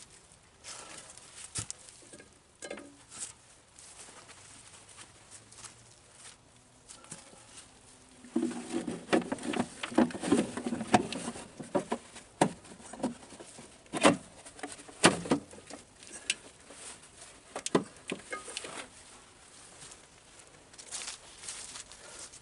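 Scattered clicks, knocks and rustling of hand work on the machine, with a busier stretch of clatter about a third of the way in and a few sharp knocks after it.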